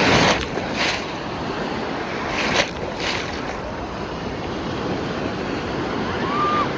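Rough storm surf: waves breaking and washing onto the beach in a steady rushing noise, with wind buffeting the microphone. The loudest surge comes right at the start, with shorter ones about a second in and near the middle.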